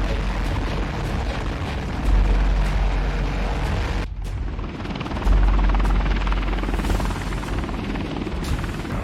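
Helicopter in flight: dense rotor and engine noise over a heavy low rumble, changing abruptly in level a few times, with a sudden drop in the upper sound about four seconds in.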